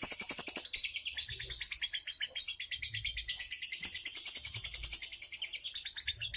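A songbird singing a long, fast run of short high chirps, about ten a second, without a break.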